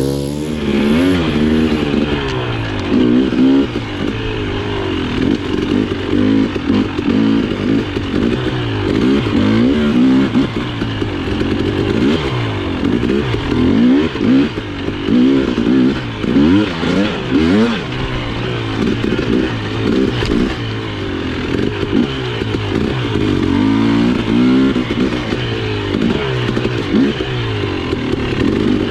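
Husqvarna TE 300i single-cylinder two-stroke engine being ridden, its revs rising and falling again and again as the throttle is worked.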